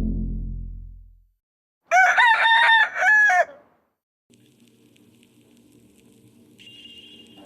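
Rooster crowing, one crow of about a second and a half, starting about two seconds in. Before it, a deep booming tone dies away; after it comes a faint low hum, with a thin high tone joining near the end.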